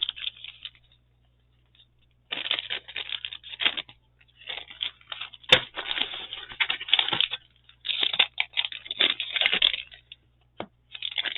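Paper rustling and crinkling in three long bursts as craft papers are handled and sorted, with one sharp click about five and a half seconds in.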